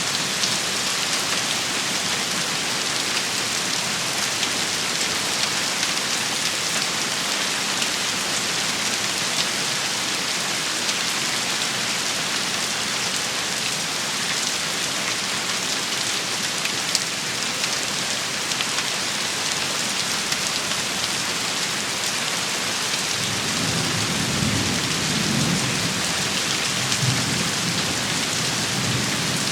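Steady hiss of a rain and hail shower beating on surfaces, with many small sharp ticks of hitting drops and stones. A low rumble of thunder rolls in during the last several seconds.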